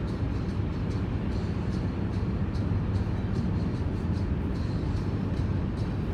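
Mercedes-Benz C300 (W205) driving at a steady pace: a constant low rumble of engine and road noise, with faint light ticks now and then.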